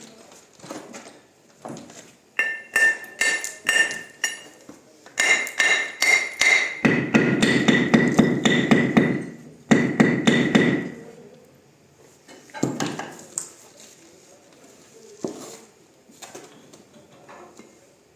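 Hammer blows in quick series, each with a metallic ring, then a faster, denser run of strikes lasting about four seconds, followed by a few scattered knocks.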